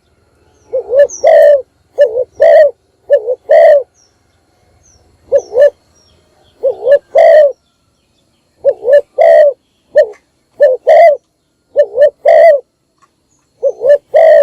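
Spotted dove cooing: short phrases of low, rolling coo notes repeated about every one to two seconds, with a longer pause around the fourth and fifth seconds.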